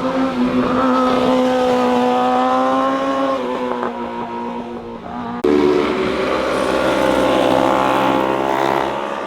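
Motorcycle engine at high revs going by, its pitch easing slightly down. Then, after an abrupt cut about five seconds in, another motorcycle engine whose pitch climbs as it accelerates.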